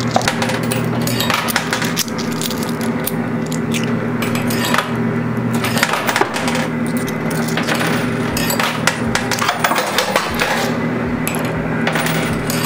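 Quarters clinking and clattering in a coin pusher arcade machine as the pusher shelf shoves them about: many short sharp clicks. Underneath is a steady low arcade hum.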